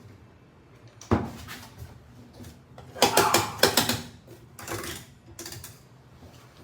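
Clattering knocks and rattles of hard objects being handled: one knock about a second in, a louder cluster of rattles around three to four seconds, then two shorter rattles.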